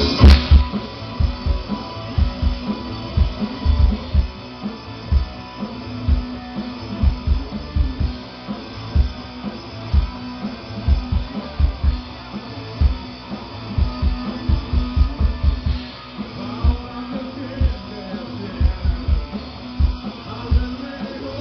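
Rock band playing live: a guitar riff over irregular, heavy low thumps of bass and drums, opening on a sharp hit.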